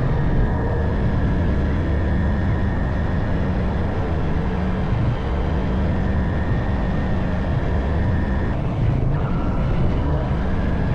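Honda CB190R's single-cylinder engine running under way, heard with heavy wind rush on the microphone; its pitch dips briefly about nine seconds in, then picks up again.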